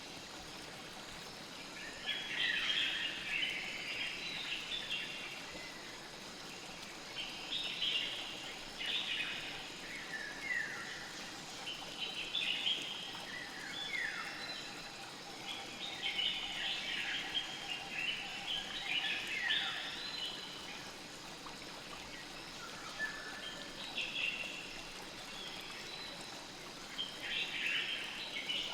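Birds calling in short bursts of quick, downward-sliding chirps that come back every few seconds, over a steady hiss of flowing river water.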